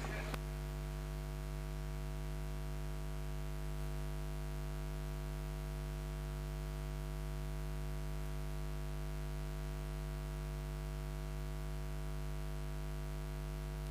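Steady electrical mains hum with its stack of overtones, unchanging throughout, from the sound system.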